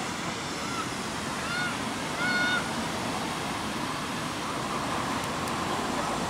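A bird calls three times in short, rising-then-falling honk-like notes, the third the loudest and longest, over a steady background hiss.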